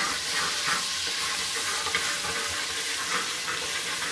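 Ginger-garlic paste sizzling as it fries in hot oil in an aluminium pot, with a metal spatula scraping against the pot as it is stirred.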